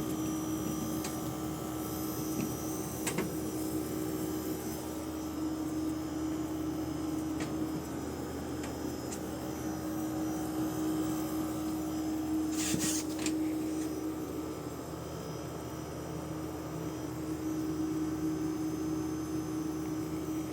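Outdoor condenser unit of an HQ air conditioner running with a steady hum and a constant droning tone, the excessive noise that the owner complains of. A few faint ticks and a short hiss about thirteen seconds in.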